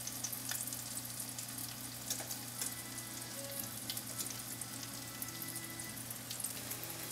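Breaded chicken cutlets shallow-frying in olive oil in a non-stick pan: a steady sizzle with scattered small crackles and pops.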